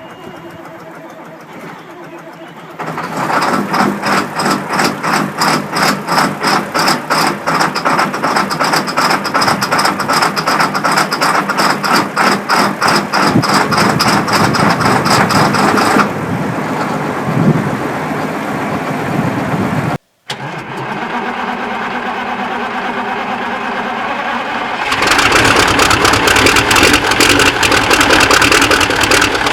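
Cold diesel engines starting and running, in a series of clips that cut from one engine to the next. A quieter engine gives way about three seconds in to a loud one with an even, pulsing beat. The sound breaks off briefly in the middle, and a louder engine runs in the last few seconds.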